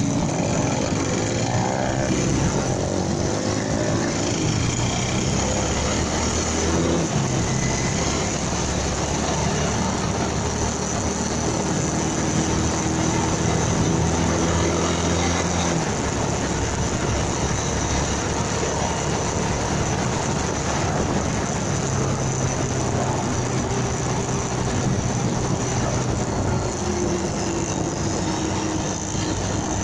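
Motorcycle engine running under way, with steady wind and road noise on the dashcam microphone. The engine note holds steady for stretches and shifts pitch a few times.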